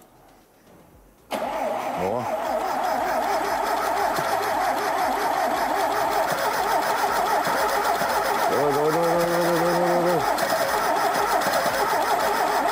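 A classic Lada's four-cylinder engine, freshly rebuilt with welded and bolted-together connecting rods, being cranked on the starter after about a second and a half of quiet, turning over steadily without catching and running.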